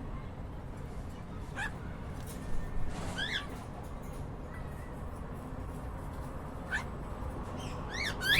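Cockatiels chirping: short, separate chirps a few seconds apart, with a quicker pair near the end, over a steady low background hum.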